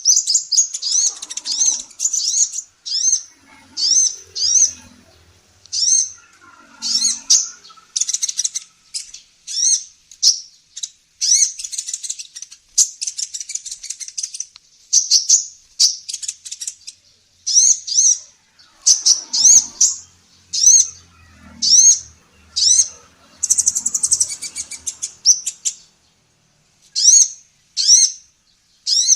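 Female kolibri ninja sunbird calling: rapid runs of short, high chirps repeated in bursts with brief pauses between them, a recording used to tutor caged songbirds.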